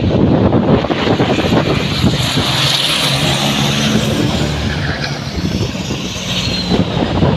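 Diesel Super Race Trucks' engines running at race speed: a loud, steady droning engine note that eases slightly in the second half.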